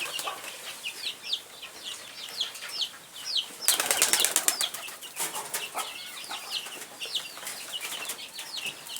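Pigeons' wings flapping in a loud burst about four seconds in, with a few shorter flutters, over continuous rapid high-pitched chirping from birds at the feeder.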